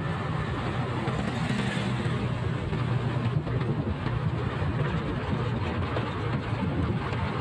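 Motorcycle engine running at a steady pace while riding, under a constant rush of wind and road noise.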